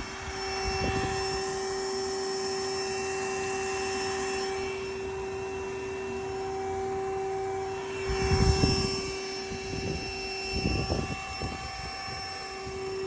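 Battery-powered bee vacuum running with a steady motor whine, while bees are sucked up from a water meter box. Louder bumps and scraping come about eight seconds in and again near eleven seconds.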